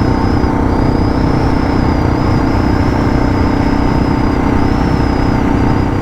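Suzuki DR650's single-cylinder engine running at a steady cruising speed, with road and wind noise and a faint high whine over it.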